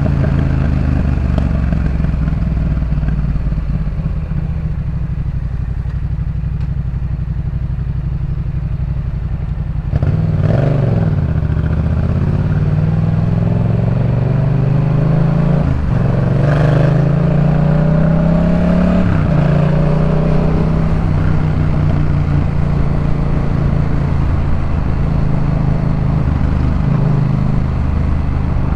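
2018 Yamaha MT-07's 689 cc parallel-twin engine through a Jeskap K4 full exhaust while riding: a steady cruise, then about ten seconds in it accelerates with rising pitch, drops sharply at a gear change, and climbs again before settling back to a steady run.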